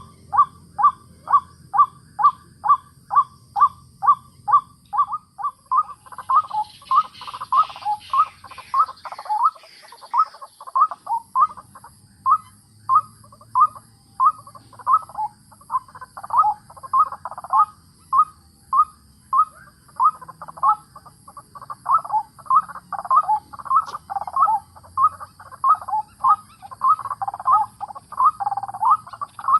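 White-breasted waterhen calling: a long, rhythmic run of 'ruak-ruak' notes, about two a second, that become crowded and overlapping in the last third, as of more than one bird calling together.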